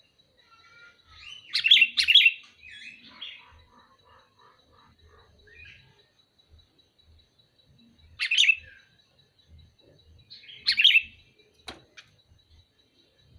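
Sooty-headed bulbul (kutilang) calling: three bursts of loud, chattering calls, about two seconds in, about eight seconds in and about eleven seconds in, with a run of softer notes after the first. A sharp click sounds near the end.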